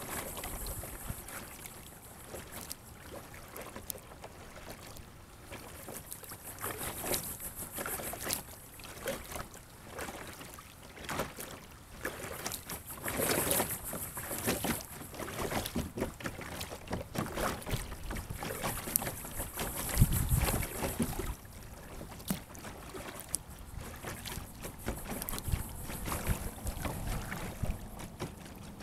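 Kayak paddle strokes splashing the water, with water sloshing against a sit-on-top kayak's plastic hull, in irregular surges every second or two. There is a louder low thump about two-thirds of the way through.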